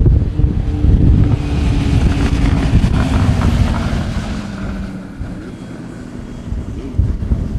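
Heavy wind buffeting on the microphone, with the hiss and whine of a HondaJet Elite's GE Honda HF120 turbofan engines. The engine sound swells for a few seconds and then fades.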